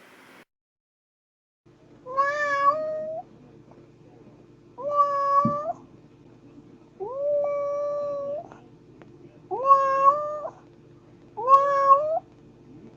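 A cat meowing five times, roughly every two seconds, each meow sliding up in pitch and then holding, over a faint steady hum.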